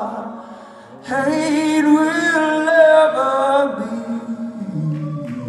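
Live rock-concert singing of the song's closing line, with sparse backing. The singing dips for about a second, then the voices come back in and hold the line.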